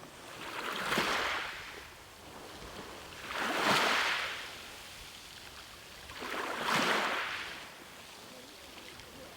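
Ocean waves washing in: three rushes of surf about three seconds apart, each swelling up and fading away.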